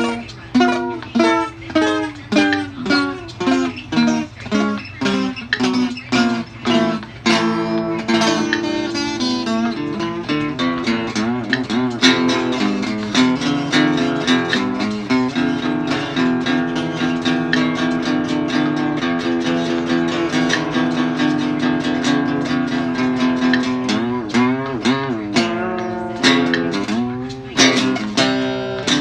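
Guitar music: separate plucked notes at first, then about ten seconds in, a dense, fast-strummed passage that holds chords, with plucked notes returning near the end.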